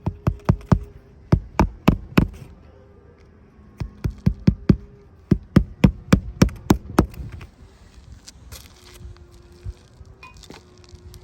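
Sharp knocks in four quick runs, several a second, over a faint steady hum; the runs stop about seven seconds in.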